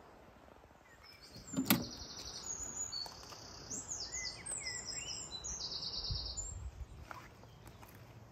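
A songbird singing: a string of high trills and swooping notes. A single sharp knock about a second and a half in is the loudest sound.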